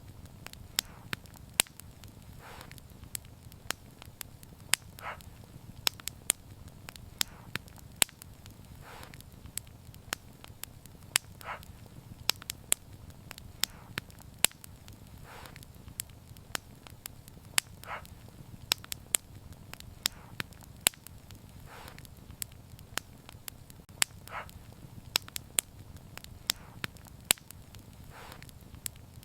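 Wood fire crackling: irregular sharp snaps and pops over a low steady rumble, with softer hissing puffs every two to three seconds.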